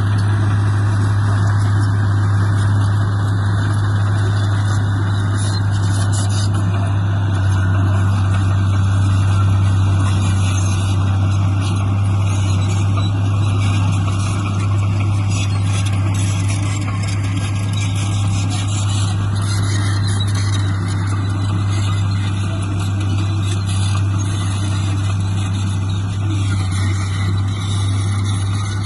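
Heavy construction machine's diesel engine running steadily, with a strong constant low hum.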